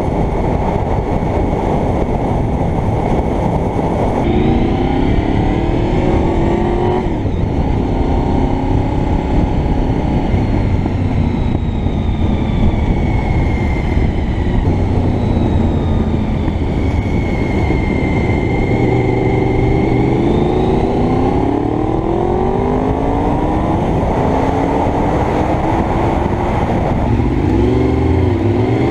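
Honda VFR750 V4 motorcycle engine pulling through the gears, its pitch rising several times and dropping back at each shift, under steady wind rush on a helmet-mounted camera.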